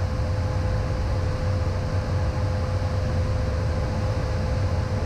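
Steady cockpit noise of a Beechcraft Premier I business jet in descent: a low rumble of airflow and engine noise with a thin, steady whine above it.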